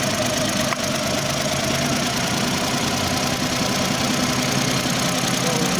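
Car engine idling steadily with a cylinder 1 misfire, the fault that sets code P0301.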